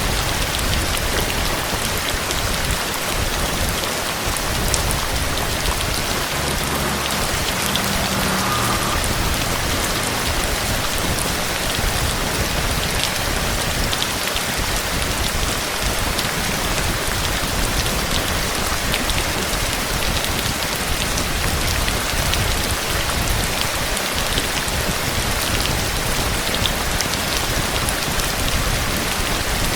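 Heavy rain falling steadily, an even hiss with scattered sharp ticks of individual drops.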